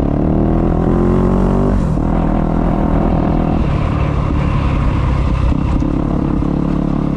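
Dirt bike engine accelerating, its pitch rising for about two seconds and then dropping as it shifts up, then pulling steadily at a lower pitch, heard through an action camera's built-in microphone.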